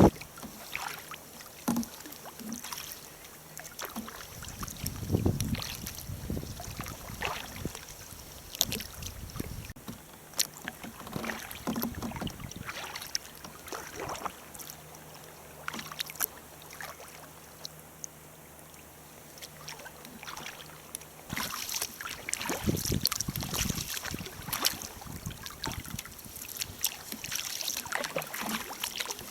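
Sea kayak on the water: irregular paddle splashes and water slapping against the hull, busier and louder in roughly the last third.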